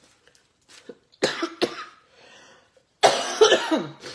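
A woman coughing: two short, sharp coughs a little over a second in, then a longer, louder coughing fit near the end.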